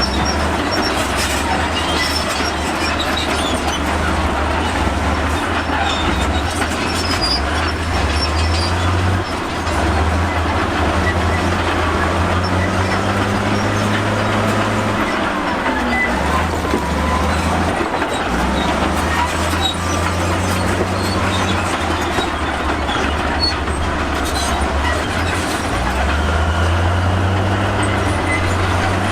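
Komatsu crawler bulldozer working: its diesel engine rises and falls with the load every few seconds, and its steel tracks squeal and clank.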